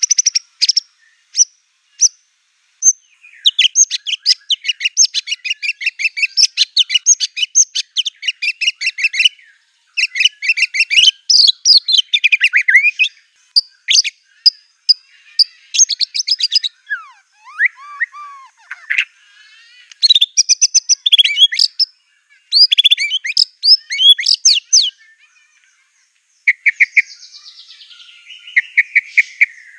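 White-rumped shama (murai batu) singing hard in fast bursts of rapid chattering trills and sharp chirps, broken by short pauses, with a slower whistled phrase about midway. Its song is loaded with mimicked phrases of other songbirds such as canary, cililin and cungkok.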